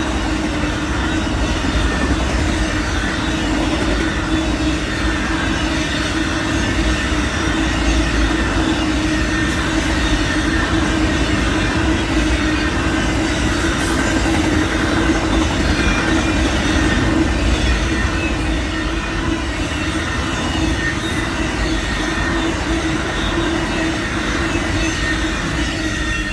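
Amtrak's southbound Auto Train cars rolling past on the rails: a steady, continuous rumble of wheels on track with a steady tone running through it.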